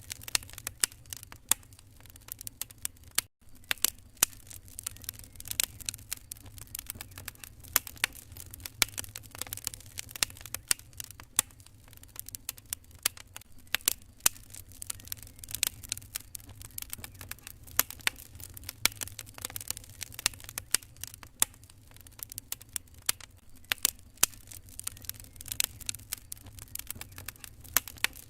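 Wood fire in a fireplace crackling, with many irregular sharp pops and snaps over a low steady rumble. The sound cuts out for an instant about three seconds in.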